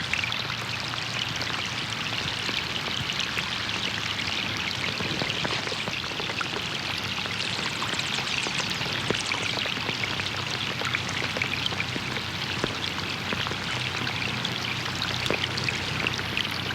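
Rain falling on a pond: a steady, dense patter of drops hitting the water surface, with running water beneath it.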